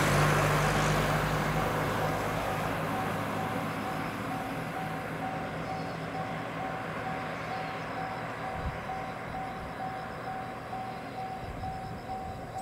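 Train running noise that is loudest at the start and fades steadily away, over a low electric hum, with a steady mid-pitched tone pulsing at an even beat throughout.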